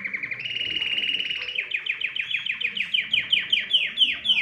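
Domestic canary singing. A fast trill runs into a buzzing roll, and after about a second and a half comes a run of rapid downward-sweeping notes, about six or seven a second, growing louder and slightly slower toward the end.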